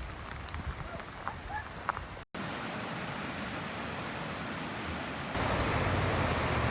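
Rain pattering, with the clicks of single drops. After a break about two seconds in, a steady rushing noise takes over and grows louder about five seconds in.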